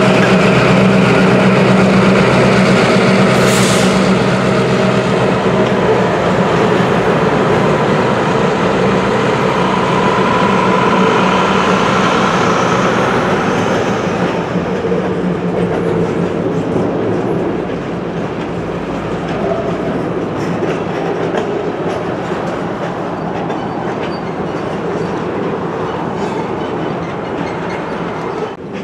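Slow freight train passing: the steady drone of EMD GP38-3 diesel locomotives, whose 16-cylinder two-stroke engines are strongest in the first half and fade after about halfway, gives way to the rattling clickety-clack of empty woodchip gondolas rolling by on jointed track.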